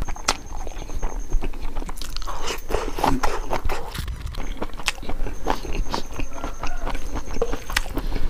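Close-up eating sounds of chicken gizzard curry and rice: chewing and biting with irregular wet smacks and clicks, and fingers working the rice on the plate.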